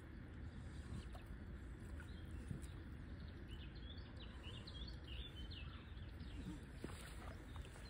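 A small bird chirping, a quick run of high calls in the middle, over a steady low rumble.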